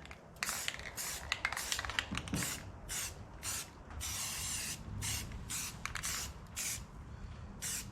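Aerosol spray paint can (rattle can) spraying in a quick series of short hissing bursts, with one longer pass about halfway through, as a tractor part is painted.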